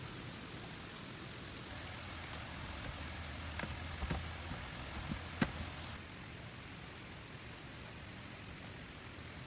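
Steady hiss of heavy rain, with a few sharp knocks in the middle, the loudest about five and a half seconds in.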